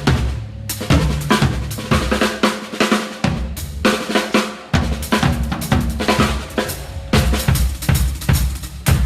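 Drum kit played in fast, busy fills: rapid snare strokes and kick-drum hits with cymbals, in runs broken by short gaps, about a second in, near the middle and around the halfway point. The snare is a Gretsch Catalina Birch and the kick a Super Kick 10.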